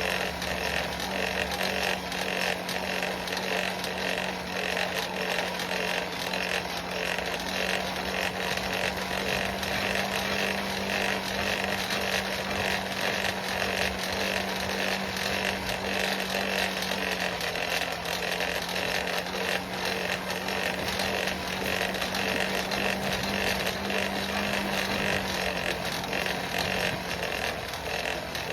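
Forge blower running steadily, pushing air into the fire pot while a chain link heats for a weld: a continuous rushing noise with a steady motor hum that sags slightly in pitch near the end.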